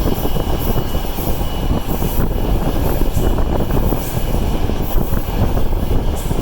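Passenger train hauled by a TEP70 diesel locomotive running, heard from aboard: a loud, steady low rumble of the train under way, with irregular short clicks.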